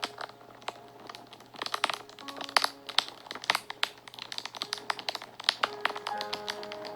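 Wood fire crackling and popping with many irregular sharp snaps. Soft background music with a few held notes runs underneath.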